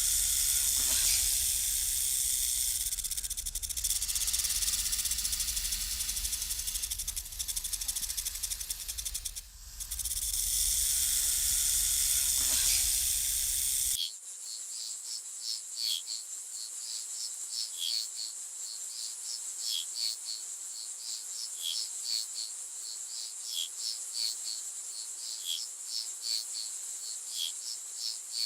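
Rainforest ambience: a dense, steady hiss with a low rumble underneath, which cuts off abruptly about halfway through. An insect chorus of crickets follows, with a steady high trill and repeated short chirps.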